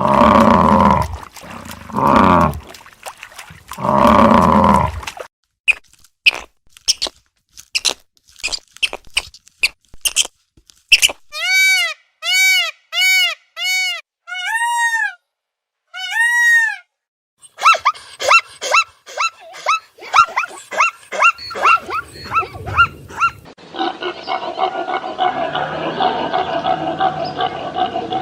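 A sequence of different animal calls, one clip after another: three long deep roaring calls, then a string of sharp clicks, then about eight short high calls that rise and fall in pitch, a fast chattering series, and a dense steady chorus of calls in the last few seconds.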